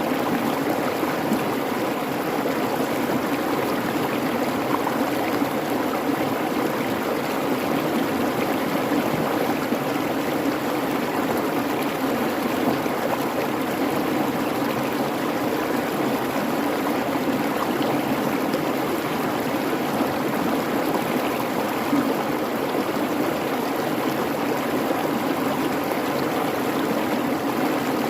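Babbling creek water running steadily, an even rushing and trickling with no change.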